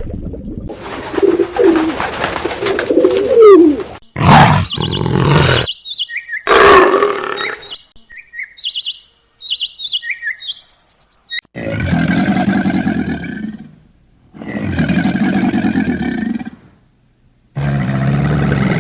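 A run of different animal calls cut one after another: rough, noisy calls at first, then a string of short high chirps, then three long, low calls of about two seconds each.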